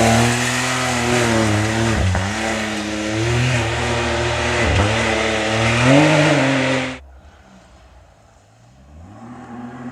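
A rally-raid car's engine running hard at close range, its pitch rising and falling as it accelerates, with two brief breaks in the sound like gear changes. About two-thirds of the way in the sound drops away suddenly to a faint, distant engine that starts to rise again near the end.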